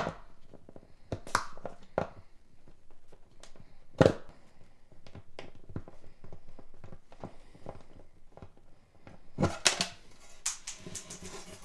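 Bridge pins being pried out of a Seagull S12 Coastline 12-string acoustic guitar's bridge with the notch of a string winder: scattered clicks and knocks, the loudest about four seconds in, and a quick run of clicks near the end.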